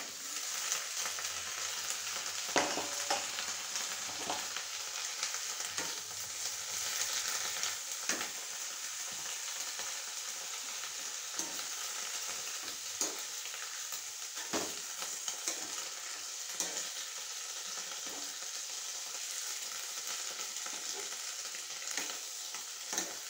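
Chopped drumstick leaves sizzling as they fry in oil with onions in a nonstick kadai. A wooden spoon stirs them, scraping and knocking against the pan now and then.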